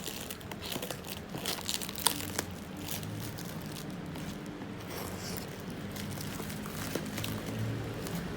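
Packaging crinkling and rustling as it is handled while a laptop is unboxed, with sharp crackles in the first few seconds, then softer handling.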